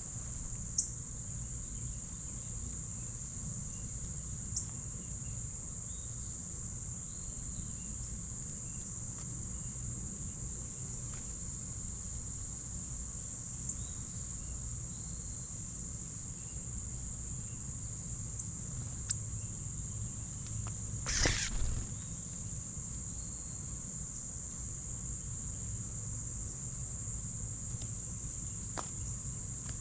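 A continuous chorus of insects, crickets or similar, holding one steady high-pitched trill over a low background rumble. A short burst of noise about 21 seconds in is the loudest moment, with a few faint clicks scattered through.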